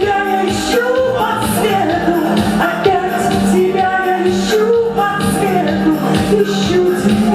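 A woman singing a slow pop song over instrumental accompaniment.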